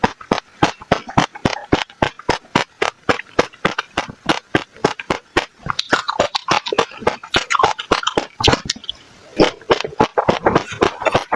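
Passion fruit seeds being crunched between the teeth close to the microphone: a rapid run of crisp cracks, about four or five a second, with a brief pause about three-quarters of the way through.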